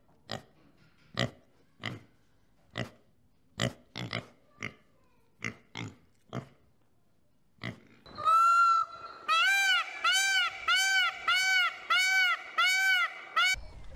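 Warthogs giving about a dozen short, sharp grunts at irregular gaps. Then, from about 8 seconds in, a male Indian peafowl (peacock) calls loudly: one longer note, then a rapid series of notes that each rise and fall, about two a second.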